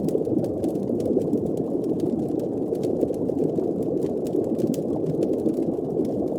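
Designed underwater ambience: a steady, muffled, low rushing and bubbling water sound, with faint scattered fire-like crackles ticking throughout.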